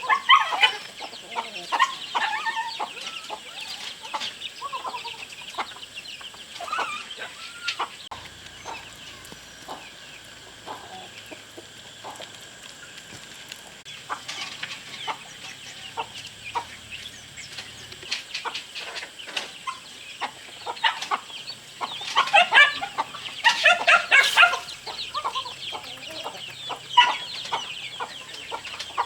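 Chickens clucking in repeated short calls, thickest about two-thirds of the way through.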